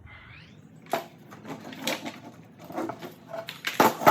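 Irregular light clicks, knocks and a short scrape as chainsaw parts and the all-plastic replacement handle are handled and fitted back into the saw's body, with the sharpest knocks about a second in and near the end.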